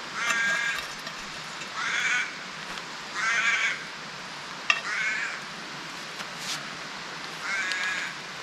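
Crows cawing: five drawn-out caws, each about half a second long, coming a second or two apart.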